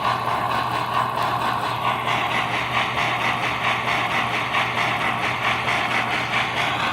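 American Flyer K5 Pacific model steam locomotive, rebuilt with digital sound electronics, running on track: a steady rhythmic pulsing rush over a constant low hum.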